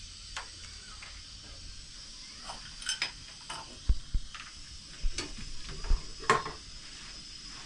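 Irregular clinks and knocks of hard objects being handled, with a few dull thumps in the middle, the loudest about four and six seconds in.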